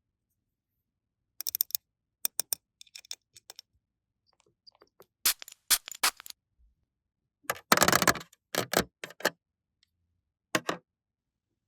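Irregular sharp clicks and taps of small toy pieces being handled, with a short dense clatter about eight seconds in.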